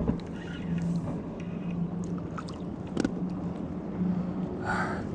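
Low, steady hum of a boat motor over water and wind noise, swelling and fading a little, with a few light knocks, one sharper knock about three seconds in.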